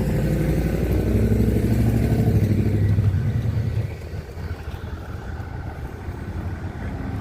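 A motor vehicle's engine running close by with a deep rumble, loudest for the first few seconds and then fading away about halfway through as it passes.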